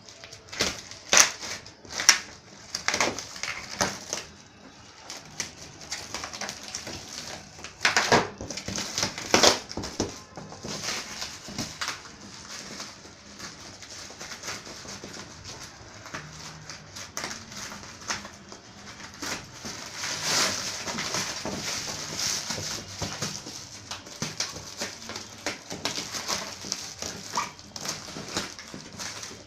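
Cardboard box and plastic packaging being handled and opened: irregular crinkling, rustling and tearing, with several sharper crackles and knocks, the loudest about a second in, two seconds in, and around eight to ten seconds in.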